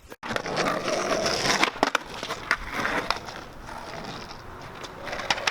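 Skateboard rolling on pavement with a steady wheel rumble. It is broken by several sharp clacks of the board's tail and deck, a cluster a couple of seconds in and another near the end, as tricks are popped and landed.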